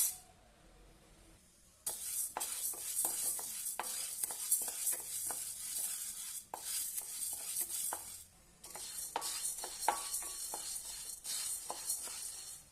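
Food being stirred in a hot pan with a spoon, with sizzling and many small clicks of the spoon against the pan. It starts about two seconds in and pauses briefly twice.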